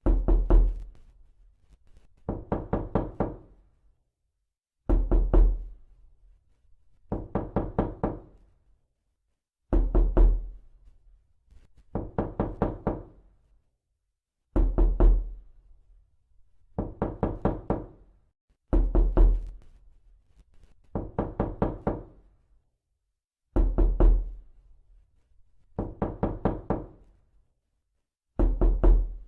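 Realistic knocking on a door, looped as a prank sound effect: quick bursts of five or six raps, one burst every two seconds or so, with short silences between.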